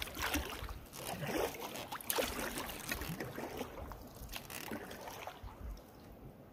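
Canoe paddle strokes splashing and gurgling in swirling river current, with water dripping off the blade. The splashes fade near the end.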